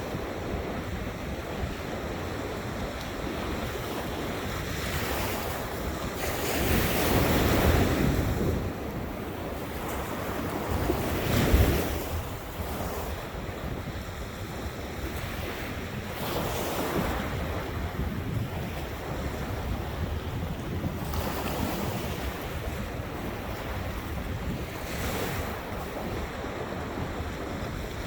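Ocean waves washing onto a beach, a steady surf rush that swells as waves break, loudest about a quarter of the way in and again shortly after, with wind buffeting the microphone.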